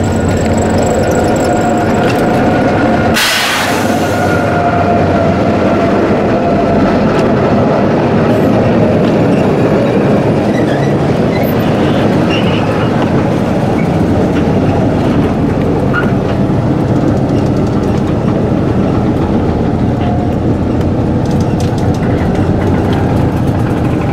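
A train passing at close range over a bolted rail joint: the locomotive's engine runs with a steady hum for the first few seconds, a brief loud hiss comes about three seconds in, then the wagons' steel wheels roll and clatter over the joint in a dense, steady rumble.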